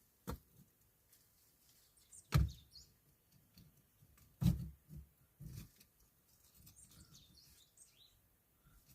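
A few short, heavy knocks, the loudest two about two seconds apart, with faint bird chirps in the background.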